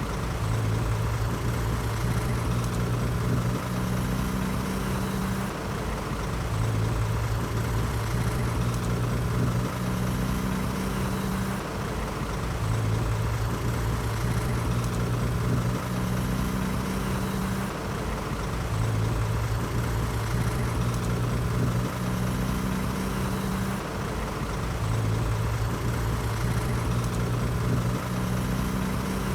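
Heavy diesel machinery engine running steadily, its hum shifting between a lower and a higher pitch in a cycle that repeats about every six seconds.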